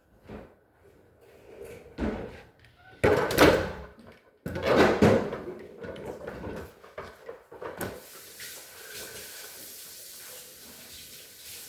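Refrigerator doors and bins being handled: a series of knocks and bangs, the loudest a few seconds in, followed by a steady hiss for about the last four seconds.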